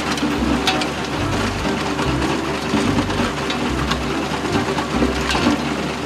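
A small electric motor whirring steadily, with background music and a few light clicks.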